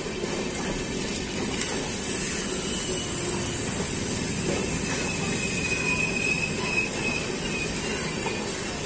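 LHB passenger coaches of an express train rolling past at speed, a steady rumble of wheels on rail. A faint high squeal rises over it for a couple of seconds past the middle.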